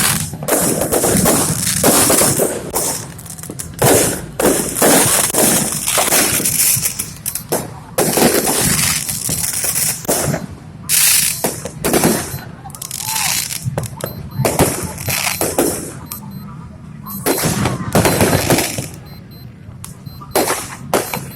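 Fireworks and firecrackers going off in a dense run of sharp, irregular bangs, many overlapping, some in rapid strings.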